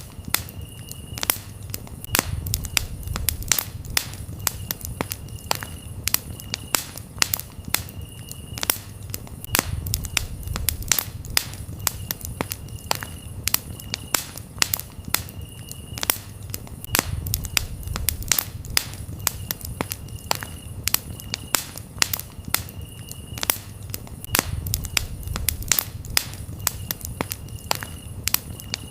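Campfire crackling and popping with many sharp snaps, over a low rumble that swells roughly every seven seconds. Crickets chirp steadily in the background.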